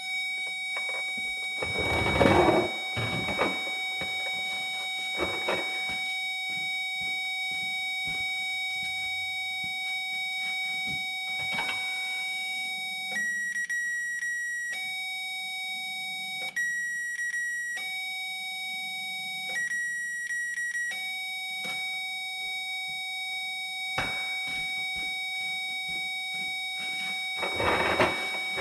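Power probe's test tone on a starter S-terminal wire: a steady low electronic tone signalling ground, which switches three times to a higher tone for about a second and a half each as the key is turned to crank, showing 12 volts reaching the starter's S terminal. Short rustles of handling noise sound over it.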